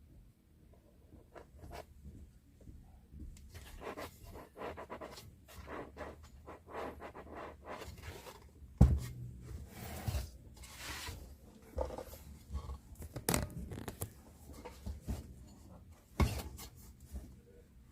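Hand-work handling noises: scraping and rustling, with several sharp knocks, the loudest about nine seconds in.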